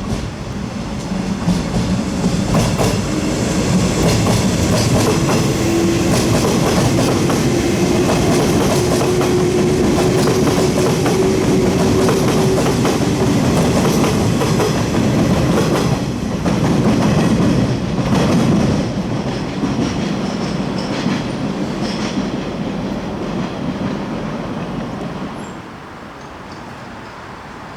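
Train pulling out of a station and running past, wheels clicking over rail joints, with a steady tone that rises slowly over about ten seconds; the noise drops away near the end.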